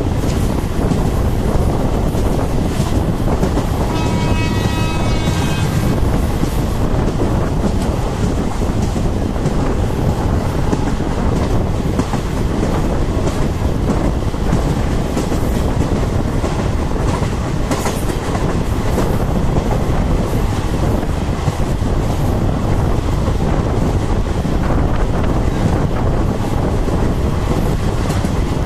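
Passenger train running at speed, heard at an open coach window: a steady rumble of wheels on rail and rushing air, with the clickety-clack of the wheels over rail joints. A train horn sounds for about two seconds, about four seconds in.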